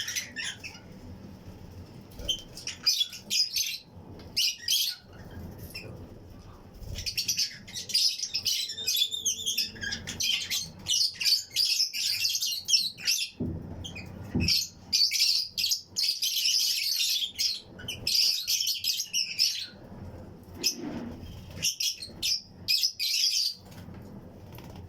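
A colony of Fischer's and lutino lovebirds chattering: many rapid, shrill chirps overlapping in bursts, with a couple of brief lulls, busiest in the middle stretch.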